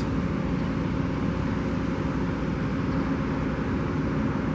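Steady low rumble of distant traffic and city noise, unchanging, with a faint steady hum under it.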